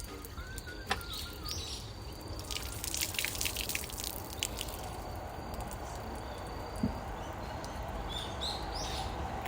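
Water dripping in irregular drops, a cluster of them a few seconds in, over a steady low outdoor background, with short bird chirps.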